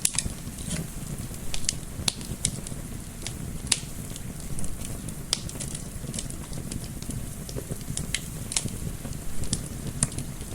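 Wood fire crackling, with irregular sharp pops several times a second over a steady low rumble of soft wind.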